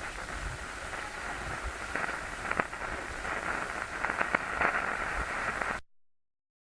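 TV static: a steady hiss with scattered crackles and clicks, cutting off suddenly near the end.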